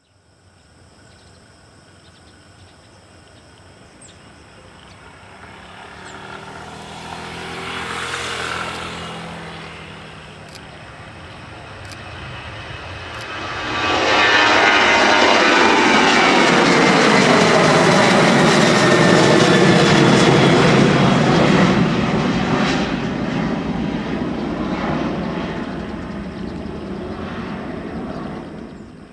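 Boeing 737 jet engines at takeoff power, growing louder as the airliner approaches, then passing close at full thrust about halfway through with a falling pitch, and fading as it climbs away. The sound cuts off abruptly at the end.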